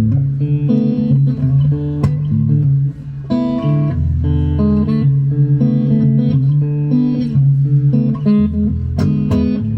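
Epiphone Emperor Swingster hollow-body archtop electric guitar played: a continuous run of picked notes and chords, with low bass notes now and then.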